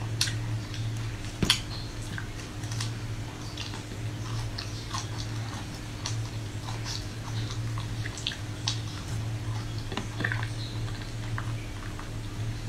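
Biting and chewing of a hard-frozen chocolate-coated ice cream bar: scattered short cracks and crunches, the sharpest about a second and a half in, over a steady low hum.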